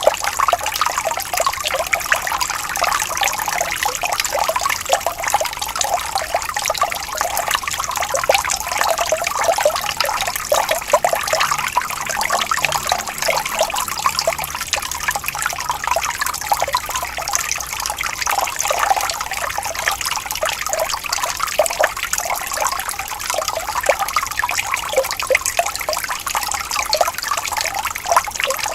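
Small stream of water trickling and babbling steadily, a dense run of small splashes and gurgles with no breaks.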